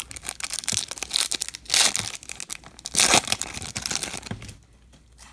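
Foil wrapper of a Topps Chrome baseball card pack being torn open and crinkled, with two louder rips about two and three seconds in. The crackling stops near the end.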